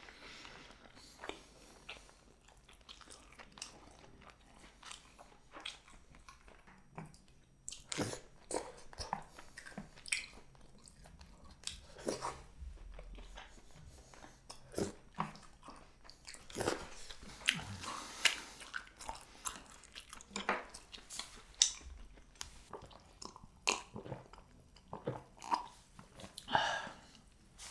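Close-up eating sounds of a person chewing spicy cheese jjimdak (Korean braised chicken): irregular wet mouth clicks and smacks with chewing and biting.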